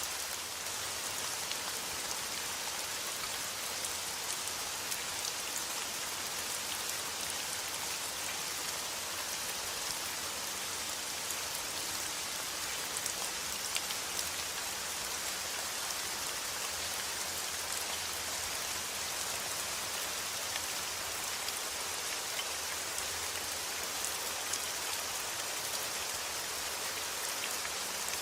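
Steady rain: an even hiss of falling rain with scattered individual drops ticking through it.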